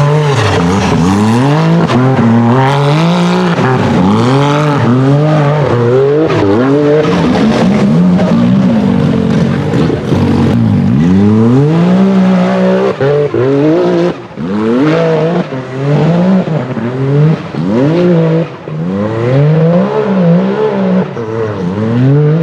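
UTV hill-climb buggy engine revving hard, its pitch climbing and falling every second or two as the throttle is worked on and off. The level drops briefly several times in the second half.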